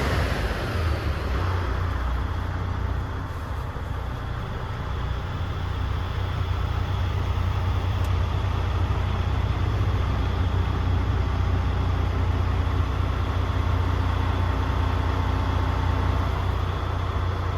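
DAF CF85 truck's PACCAR 460 bhp diesel engine idling steadily with a deep, even rumble. A loud air hiss dies away in the first second.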